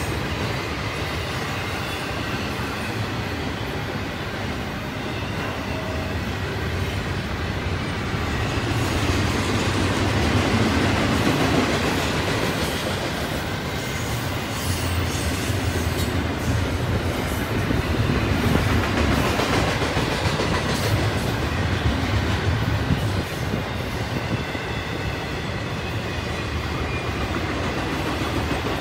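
Intermodal container well cars rolling past on steel rails: a steady rumble of wheels with clicking over the rail joints, growing louder about ten seconds in and again near twenty seconds.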